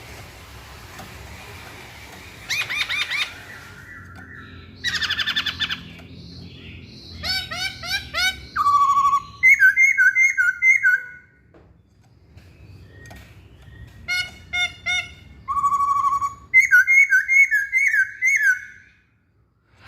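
A poksay Hongkong laughingthrush singing loud, varied phrases of repeated whistled notes, trills and short slurred calls, with a brief lull about midway. The song stops shortly before the end.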